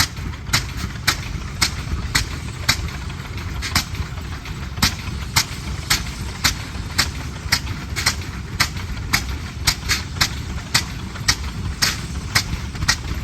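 Antique tractor engine running slowly, with sharp, even exhaust pops about twice a second over a low rumble.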